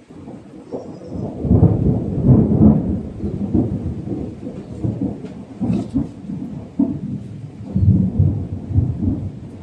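Thunder rumbling in long rolls, swelling to its loudest about two seconds in and again near the eighth second, over faint rain.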